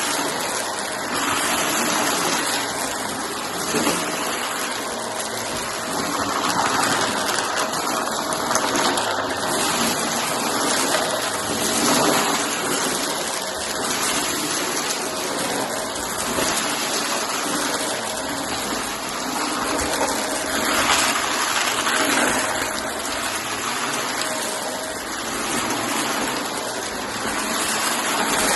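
Shark vacuum cleaner running, a loud steady rushing hiss that swells now and then as it sucks up pieces of cardboard.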